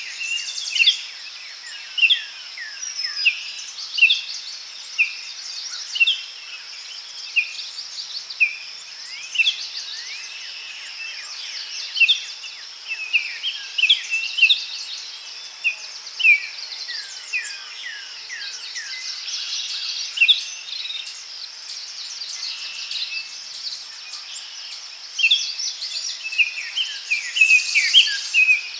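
Daytime forest ambience: several birds chirping with short, falling notes every second or two over a steady, high-pitched insect drone. The birdsong grows busier near the end.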